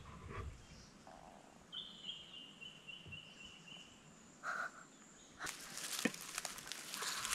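Faint bush ambience: a bird gives one steady high call lasting about two seconds, starting near two seconds in. From about five and a half seconds in, dry rustling and crackling.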